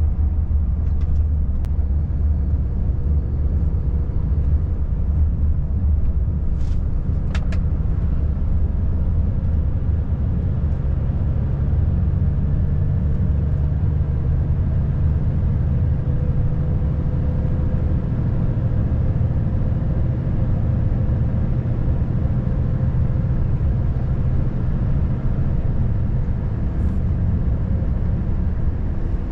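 Volvo FH540 truck's 13-litre straight-six diesel running steadily under way, heard from inside the cab over a low road rumble; the engine note rises slightly around the middle.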